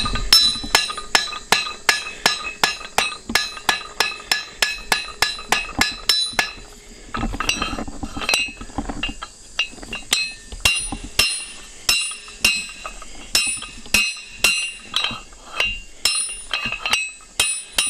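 Hand hammer striking hot 1/4 inch round stock on an anvil at about three blows a second, each blow ringing, as the blacksmith draws out a point. The hammering pauses briefly about seven seconds in, then resumes less evenly.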